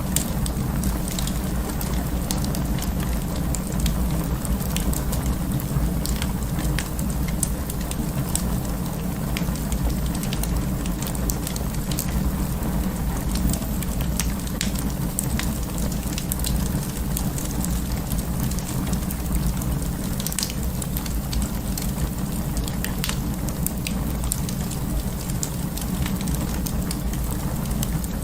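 Wood fire burning in an open fireplace: a steady low rumble of flames with frequent irregular crackles and pops.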